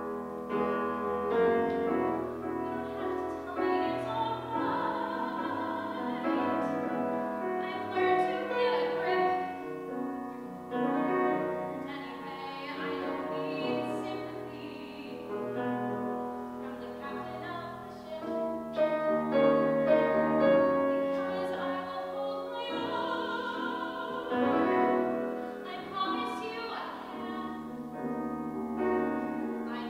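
A music-theatre song performed live: a singer with vibrato, accompanied on piano.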